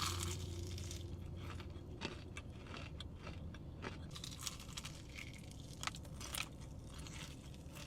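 Biting into and chewing crispy fried chicken, the breaded crust crunching in scattered crackles.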